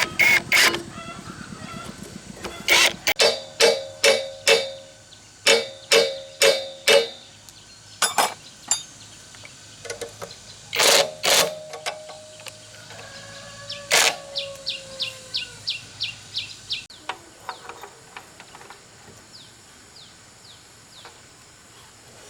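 Metal being struck again and again in quick groups of blows, several of them ringing with a clear tone, then lighter ticks and taps near the end.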